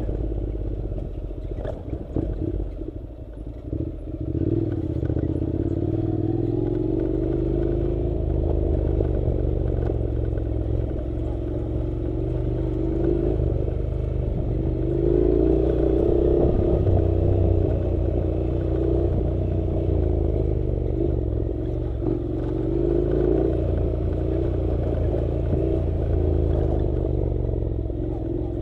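Honda NC700's 670 cc parallel-twin engine running as the motorcycle rides a rough dirt track, its pitch rising and falling with the throttle, over a low rumble and scattered clatter from the bumpy surface. The engine eases off briefly a few seconds in, amid a cluster of knocks.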